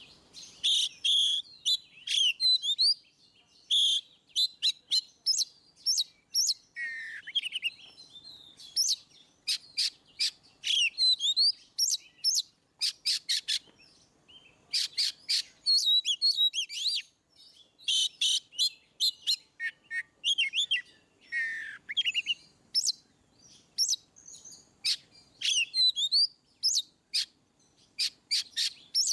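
Oriental magpie-robin (kacer) singing loud and continuously. Fast runs of short, sharp notes are broken up by whistled phrases, and a couple of these slide down in pitch.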